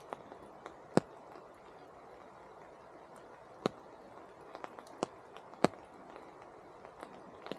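Steady light rain falling, with irregular sharp taps of single large drops landing close by, four of them louder than the rest.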